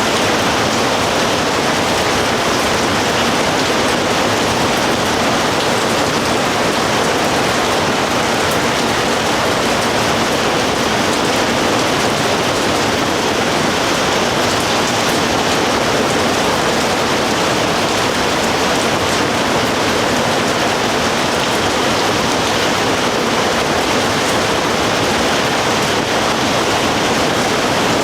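Steady rain falling: an even, unbroken hiss that neither rises nor falls.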